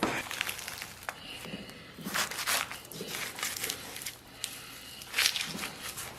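Knife cutting and tearing through a raw lamb carcass while it is jointed into pieces: irregular scraping and tearing strokes with a few sharp clicks.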